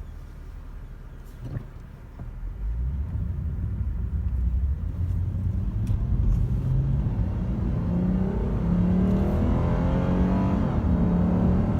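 Lexus RC 350 F Sport's 3.5-litre V6 accelerating hard, heard from inside the car: a low rumble that, from about two seconds in, gets louder and climbs in pitch.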